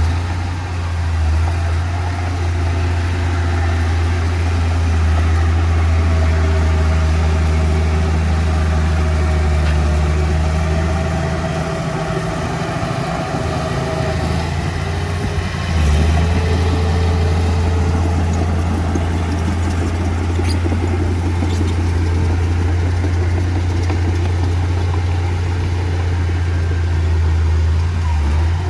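Diesel engine of heavy earthmoving machinery running steadily, easing off briefly about halfway through and then picking up again.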